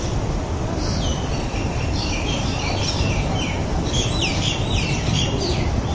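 Passenger train rolling slowly past a station platform: a steady low rumble. From about a second in, birds chirp over it in many quick, falling notes, densest in the middle.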